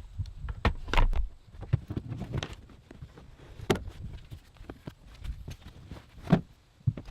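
Scattered knocks, clunks and rustling as a car seat, its mounting bolts already out, is worked loose and lifted out of a Subaru Forester. The loudest knocks come about a second in and again near the end.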